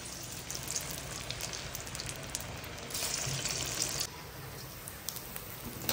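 Pottukadalai vadai deep-frying in hot groundnut oil, a steady sizzle with small crackles. The sizzle grows louder and brighter about three seconds in, then settles back a second later.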